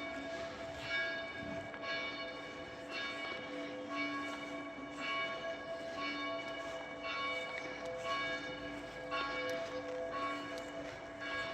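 Church bells ringing, with a fresh strike about once a second and the tones ringing on between strikes.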